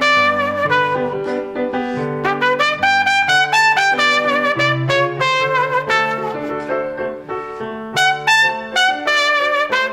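A trumpet plays a salsa melody of short, quick notes and longer held ones, in a duet with a lower accompanying instrument.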